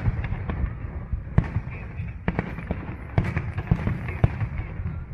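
Aerial fireworks bursting: a run of sharp bangs over a continuous low rumble and crackle, with the loudest bangs about a second and a half in, then near two, three and four seconds.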